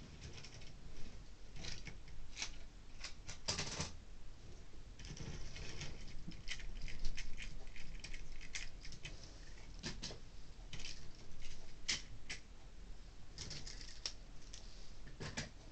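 Model railway wagons being handled on the track: irregular light clicks, taps and plastic rattles as wagons are lifted off, set down and pushed together, with a soft rustle a few seconds in.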